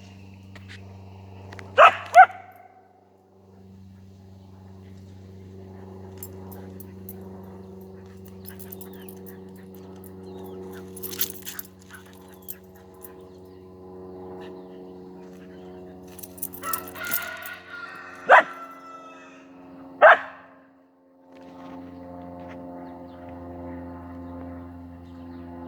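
Husky barking in short sharp barks: two in quick succession about two seconds in, then two more well apart near the end, with smaller yips just before them. A steady low hum runs underneath.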